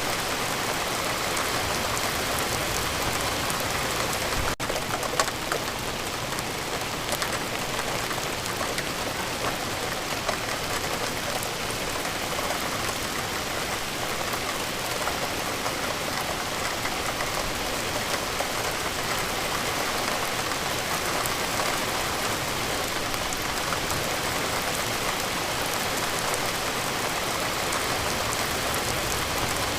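Steady rain falling, an even hiss with fine scattered drop patter, broken by a momentary dropout about four and a half seconds in.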